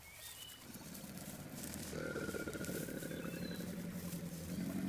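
Faint outdoor nature ambience: a low rumble with a few brief, high chirps scattered through it.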